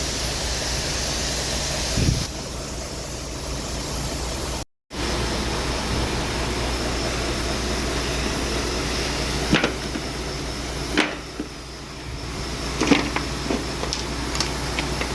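Steady mechanical hum, with a few short sharp clicks and knocks in the second half.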